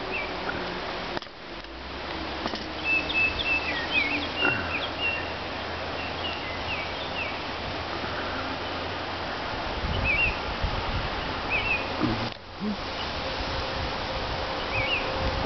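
Small birds chirping, short high chirps scattered through, over a steady outdoor background noise with a low rumble; the background briefly drops out twice.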